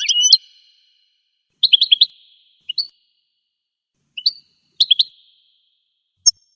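Goldfinch singing: short phrases of rapid, high twittering notes broken by pauses of about a second. A sharp clicking note comes near the end.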